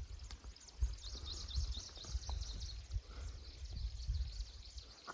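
Low rumbling and scattered knocks on the microphone, with a bird singing a rapid run of high chirps for about two seconds, starting about a second in.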